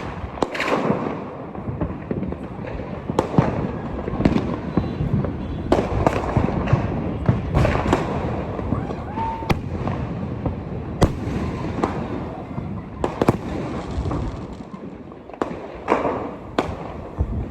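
Fireworks and firecrackers going off: a continuous crackling din broken by many sharp bangs, easing a little near the end.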